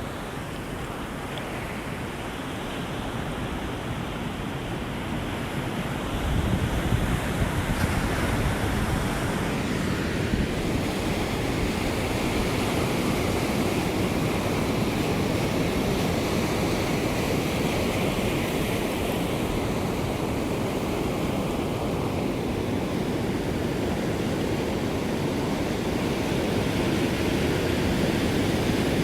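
Ocean surf washing onto the shore, a steady rushing noise that builds over the first few seconds and swells louder about six seconds in, then holds.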